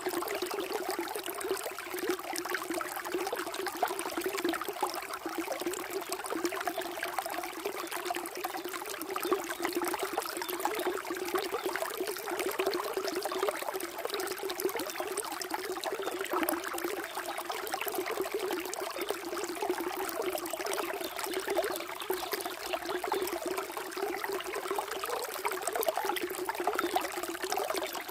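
Flowing water trickling and splashing steadily, without a break.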